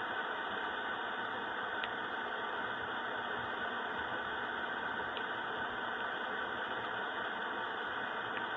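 Steady, even hiss-like noise with a faint hum underneath, unchanging throughout: the blurred cab and idling-engine noise of fast-forwarded footage recorded in a truck.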